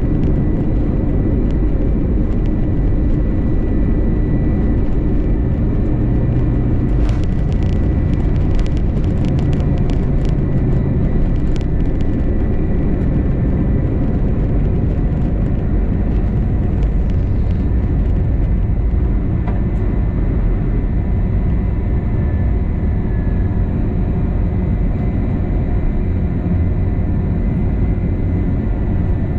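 Airbus A321 twin jet engines running at high power, heard from inside the cabin: a steady heavy rumble with a few fine steady whining tones over it. A run of light clicks and rattles comes about a quarter of the way in.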